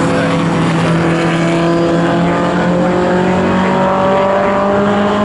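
Pre-1966 touring cars racing at full throttle, their engine notes rising slowly as they accelerate.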